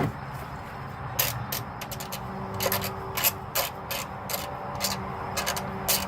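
A ratchet and socket working an oil drain plug: scattered sharp metallic clicks and scraping at irregular intervals, over a steady low hum.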